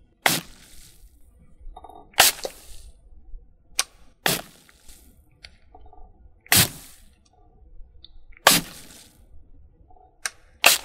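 A series of sharp cracks or taps, six loud ones about two seconds apart, each trailing off in a brief hiss, with a few fainter clicks between them.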